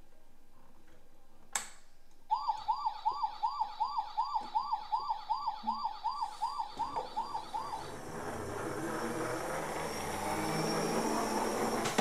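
Toy fire truck's electronic siren set off by a button click: a quick repeating yelp, about two and a half rising-and-falling wails a second, that stops about eight seconds in. A rushing noise then swells over the last few seconds.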